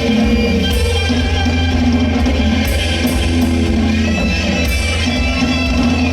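Live rock band playing: electric guitar, bass guitar and drum kit, with cymbal hits landing in quick groups of three about every two seconds over a steady, full groove.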